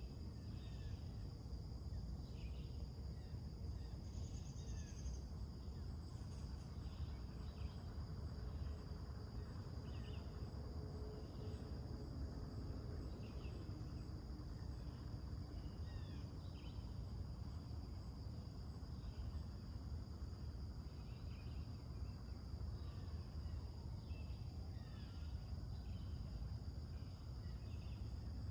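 Summer morning ambience: insects keep up a steady high-pitched drone while birds give many short chirps, over a steady low background rumble.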